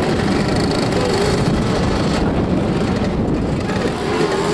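Motoball motorcycles' engines running on the pitch, their pitch rising and falling as the riders rev and ease off.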